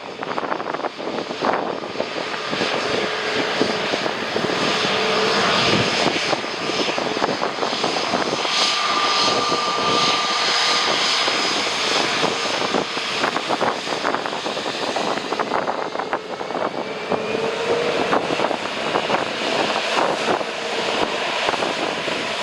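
Jet airliner passing close on landing, a steady engine rumble with whining tones that builds a few seconds in, holds, and shifts in pitch near the end, over gusty wind buffeting the microphone.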